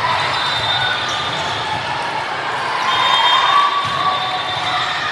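Indoor gymnasium noise during a youth team match: a crowd murmuring, with short high squeaks and the odd ball or court sound.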